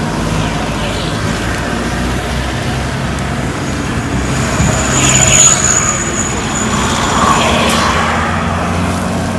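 Vehicle engines running steadily, with a louder swell about five seconds in and a thin high squeal lasting a few seconds in the middle.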